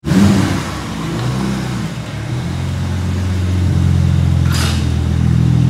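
BMW N54 twin-turbo inline-six in an E36 M3 running at low speed as the car is driven slowly, with a brief rev right at the start and the engine note growing gradually louder. A short hiss comes about four and a half seconds in.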